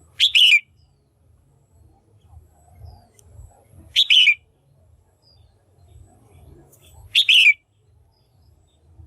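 Red-whiskered bulbul calling, taken for a female's call of the kind played to stir up male birds or to lure them in. It gives three short, loud calls that fall in pitch, about three and a half seconds apart, over a faint low rumble.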